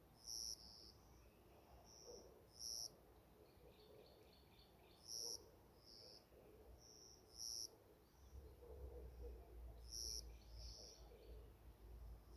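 Small birds calling in a forest: a short high call note repeats about every two and a half seconds, with a softer answering note after most of them and two faint trills, over a quiet low rumble.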